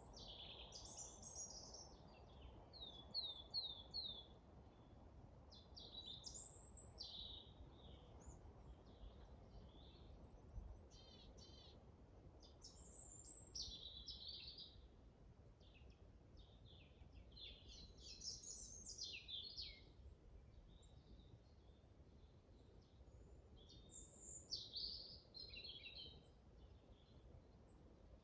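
Several wild songbirds singing and chirping in a forest, with short clusters of chirps and quick trills coming every few seconds over a faint, steady background rush.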